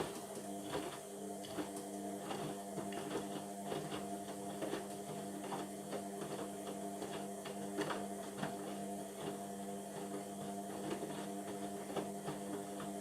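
Indesit washing machine running mid-cycle: a steady electric motor hum with frequent light clicks and knocks over it.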